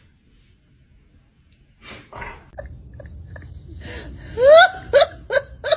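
A dog whining and yipping. It opens with a few short squeaks, then a loud rising whine about four and a half seconds in, then a quick run of short high yips, about three a second.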